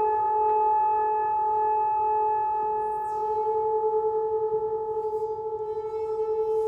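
Singing bowls ringing in long, steady overlapping tones. From about halfway the sound pulses in a quick, even waver.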